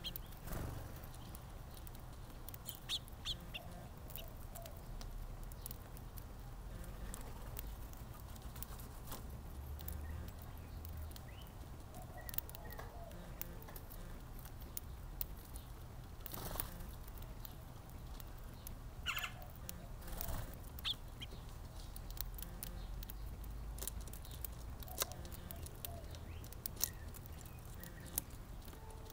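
Small birds at a backyard feeder: scattered short taps and flutters, with a few brief chirps.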